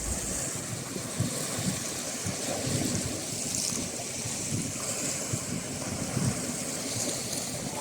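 Sea waves washing with a steady hiss, and wind buffeting the microphone in irregular low rumbles.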